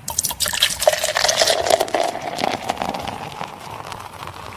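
Close-up mukbang eating sounds: a rapid run of small clicks and scrapes of spoon and mouth on rice porridge, busiest in the first two seconds, then fading.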